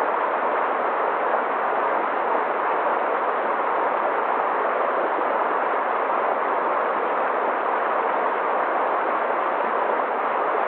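Mountain river water rushing steadily over rocks, an even unbroken rush.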